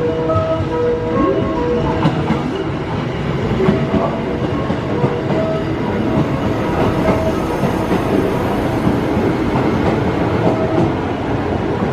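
Six-car electric train pulling into the platform, its wheels rumbling and clattering over the rail joints.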